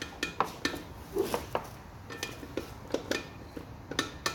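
Metal hand tools and sockets clinking and knocking: a dozen or so sharp, irregular clicks, some with a brief metallic ring.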